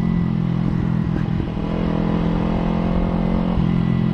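Motorcycle engine running at a steady speed under the rider, heard from the rider's own mic, its note dipping briefly about a second and a half in and shifting again near the end.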